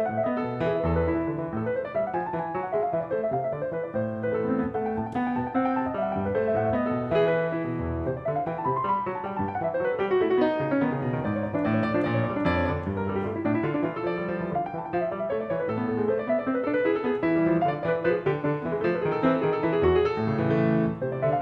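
Background piano music, a flowing melody with continuous runs of notes.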